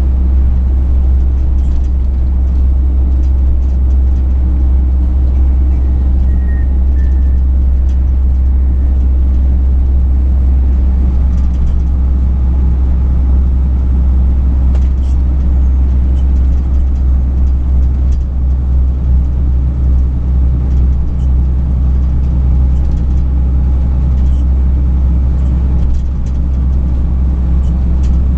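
Steady low rumble of a truck on the move, heard from inside the cab: engine drone and road noise with no change in pace.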